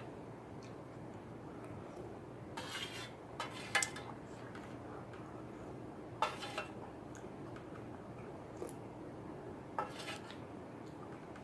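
Cutlery clinking and scraping against a bowl during eating, in about four short clusters over a faint steady background.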